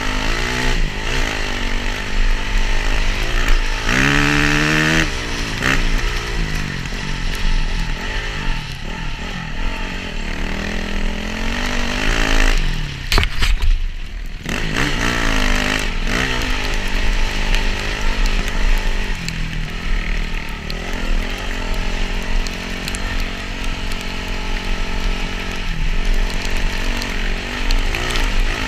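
Motocross dirt bike engine revving up and down, its pitch climbing and falling again and again as the rider accelerates and shifts, with a brief lull about halfway through.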